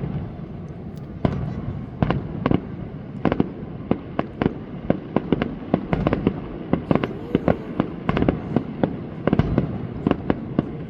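Fireworks display going off in quick succession: an irregular rapid string of sharp bangs and cracks, several a second, over a continuous low rumble.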